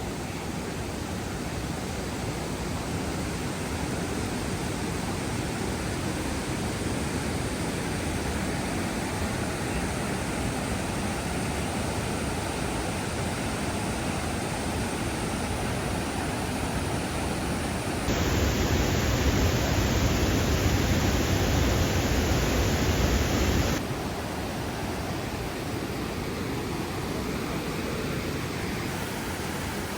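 Waterfall: a steady wash of falling water. For several seconds past the middle it is louder and duller, then returns to the lighter wash.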